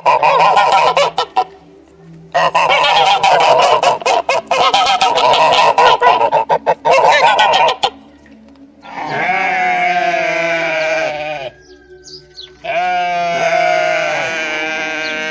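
Geese honking in a rapid, choppy flurry for most of the first eight seconds, then two long wavering animal calls, each lasting about two and a half seconds and dropping in pitch at the end.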